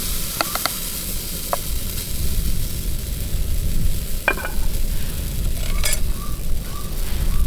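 Pancakes sizzling in a frying pan on a camp stove, with a few short clicks and scrapes of a utensil against the pan, over a low rumble that grows from about two seconds in.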